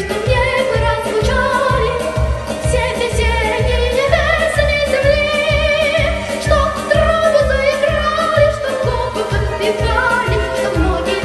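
A young girl's solo voice singing a bright marching song over a backing track, holding long notes with vibrato, with a steady beat in the bass.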